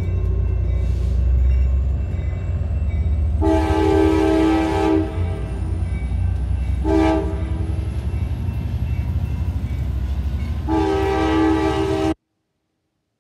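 Amtrak passenger train rolling past close by, a steady low rumble of cars and wheels. A train horn sounds ahead: a long blast, a short one, then another long blast, the pattern sounded approaching a grade crossing. The audio cuts out abruptly near the end.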